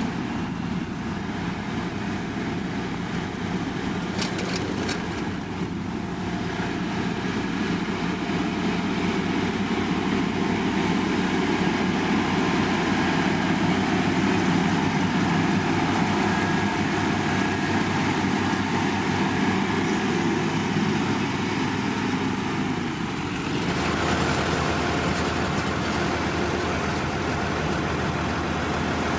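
Engines of heavy road-construction machinery running steadily, with an abrupt change to a different engine sound about three-quarters of the way through.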